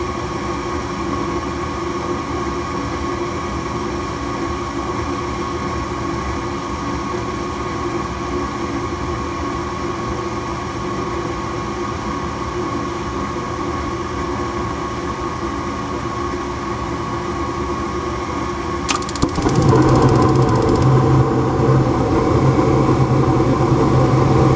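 Ruud GPN gas furnace's draft inducer motor running steadily with a fixed whine. About nineteen seconds in, there is a click and the gas valve opens and the burners light, making the sound louder with a low hum added.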